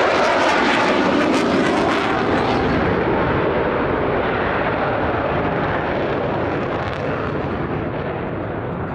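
F-16 fighter jet passing overhead. Its jet engine noise is loudest at the start and fades gradually as it flies away, losing its hiss after about three seconds.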